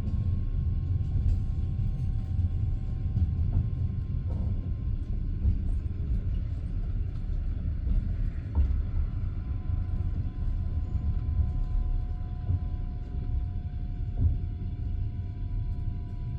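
Passenger train carriage running along the track: a steady low rumble of the wheels on the rails, with occasional knocks and a faint steady whine.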